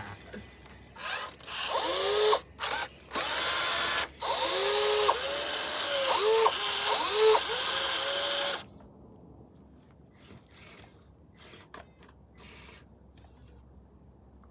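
Electric motor of a radio-controlled construction model whining, its pitch rising and falling in short sweeps as it is worked. The motor stops suddenly a little past halfway, leaving only faint clicks.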